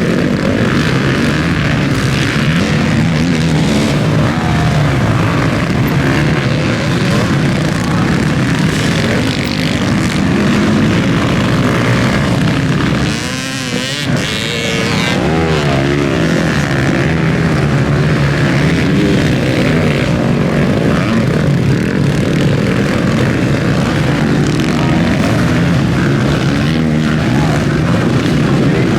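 Motocross bike engines running hard on the track, revving up and down. About halfway through the sound dips briefly and an engine's pitch swings up and down several times.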